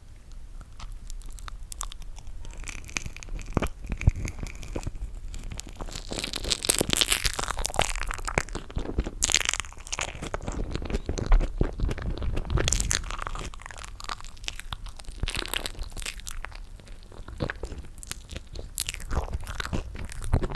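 Close-up mouth sounds of eating toasted marshmallow: biting, chewing and sticky smacking, a dense run of small clicks and crackles.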